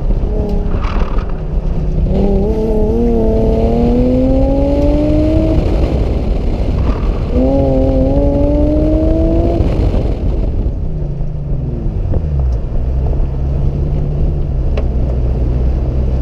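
Infiniti G35's 3.5-litre V6 under hard acceleration on an autocross course: the engine note climbs steadily, breaks off, climbs again, then falls away about eleven seconds in and settles into a low steady running note as the car slows.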